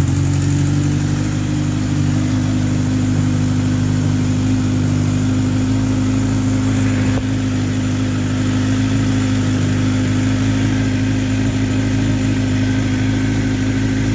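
Kawasaki H2 SX's supercharged inline-four idling steadily just after a cold start, freshly filled with new oil.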